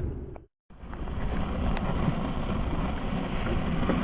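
Wind buffeting the microphone outdoors, a steady low rumble, broken by a brief cut to silence about half a second in.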